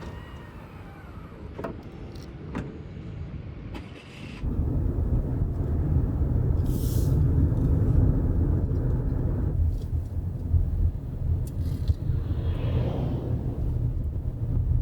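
A few sharp clicks, then about four seconds in a steady low rumble of a Subaru Forester starts and continues, heard from inside the car.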